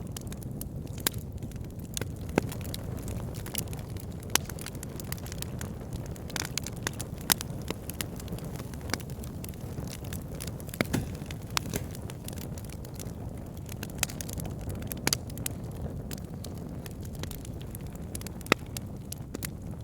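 Wood fire burning in a fireplace: a steady low rush of flames with irregular sharp crackles and pops from the burning wood, a few standing out louder than the rest.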